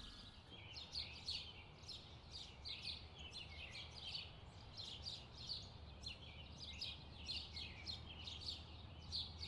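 Faint birds chirping over and over, a few short descending chirps a second, over a low steady hum.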